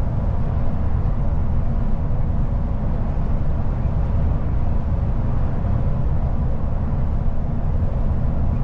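Passenger train running along the track: a steady low rumble with a fainter hiss above it.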